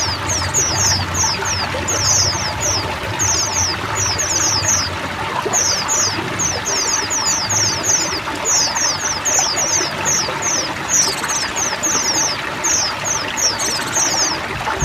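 A chorus of many white-eyes (pleci) chirping in quick clusters of short, falling notes over steadily running, trickling water.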